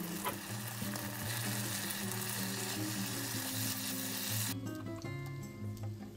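Eggplant, onion and green onion sizzling in a hot oiled frying pan as they are stir-fried and turned with a silicone spatula. The sizzling cuts off abruptly about four and a half seconds in, leaving a few light clicks.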